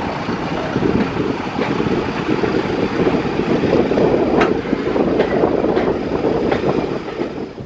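Running noise of a train heard aboard a Mk1 passenger coach: a steady rumble with the wheels knocking over rail joints every second or so, dropping away sharply at the very end.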